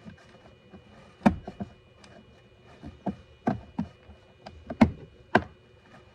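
Irregular hard knocks and clicks of car parts and hand tools being handled and fitted. The loudest come about a second in, in the middle, and twice near the end.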